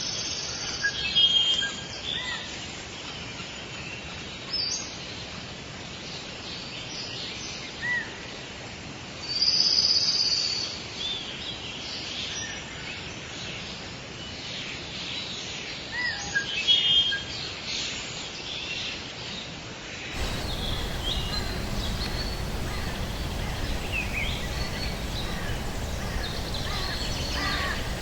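Forest bird ambience: several wild birds calling and chirping in short, scattered phrases over a steady background hiss. About twenty seconds in, the sound switches to a different recording with a louder, fuller steady noise bed and busier calling.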